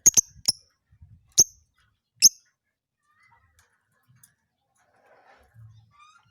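A lovebird calling: about five short, shrill chirps, the first few in quick succession, within the first couple of seconds.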